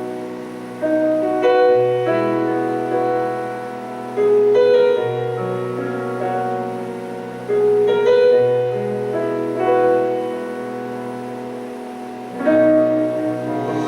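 Slow piano music: sustained chords over a held bass note that changes about every two seconds, with a new phrase entering near the end.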